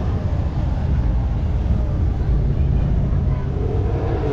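Steady low rumble of a car engine running, with indistinct voices of people talking in the background.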